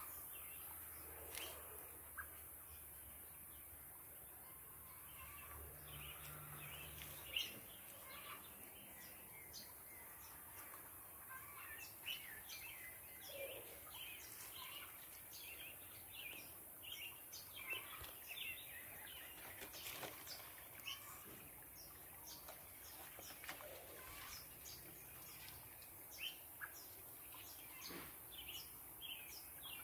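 Small birds chirping faintly in the background, many short calls scattered throughout.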